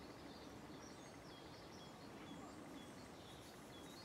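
Faint birdsong: small birds giving short, high chirps again and again over a soft background hush.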